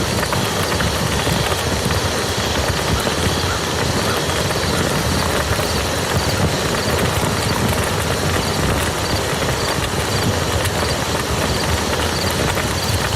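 Steady rain falling on a muddy field: a dense, even patter of drops over a low rumble.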